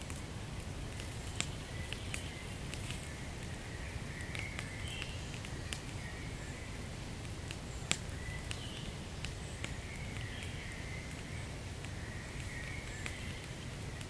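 Wood fire burning in a fireplace: a steady low rumble of flames with scattered crackles and sharp pops, two louder pops about a second and a half in and about eight seconds in.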